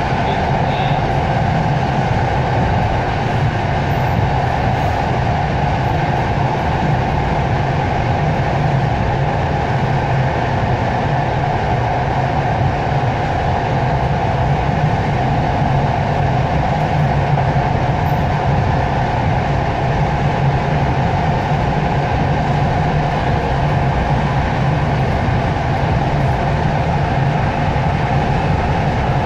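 Passenger train running at steady speed, heard from inside the carriage: an even, unchanging rumble of wheels on rails with a low hum.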